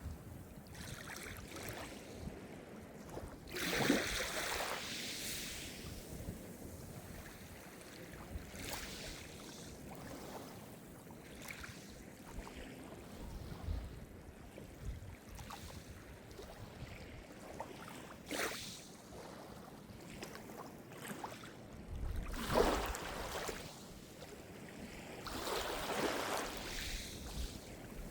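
Small Mediterranean waves breaking and washing onto the shore over a steady hiss of sea, with louder swells about four seconds in and twice more near the end.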